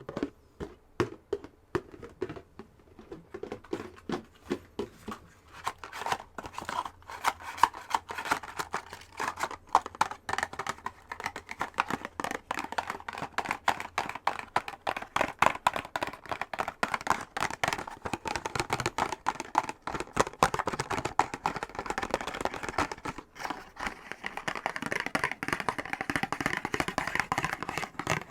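Fingernails tapping and scratching fast on a box: a dense, unbroken run of quick clicks and scrapes, growing brighter in the last few seconds.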